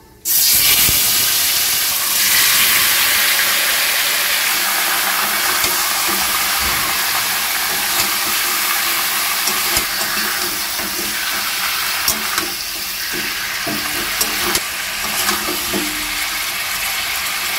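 Marinated chicken pieces hitting hot mustard oil in a kadai, sizzling loudly from the moment they go in and easing a little over the following seconds. A metal spatula scrapes and clacks against the pan now and then as the chicken is stirred.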